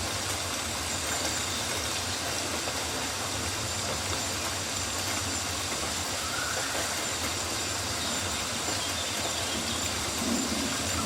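Steady rain hiss in a rainforest, with rain falling on leaves, and a faint rising whistle about six seconds in.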